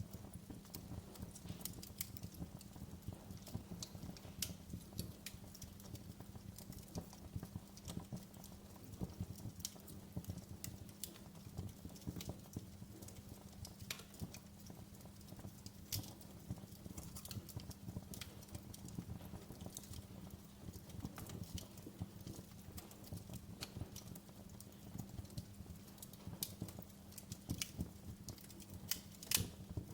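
Wood fire crackling in a fireplace: irregular sharp pops and snaps over a low, steady rumble, with one louder pop near the end.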